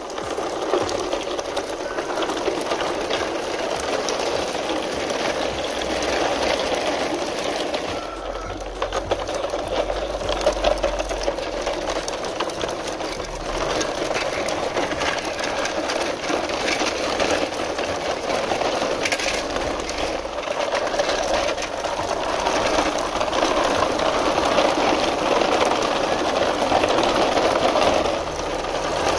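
Plastic wheels of a loaded toy truck rolling over stony dirt, a steady rattling scrape.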